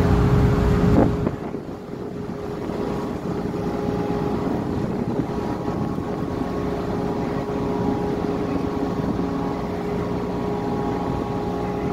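A ship's engine and machinery running with a steady hum, with wind noise on the microphone. A louder low engine rumble drops away about a second in.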